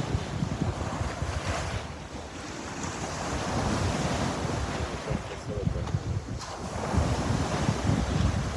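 Sea waves washing onto the shore, the surf rising and falling in swells every few seconds, with wind buffeting the microphone as a low rumble.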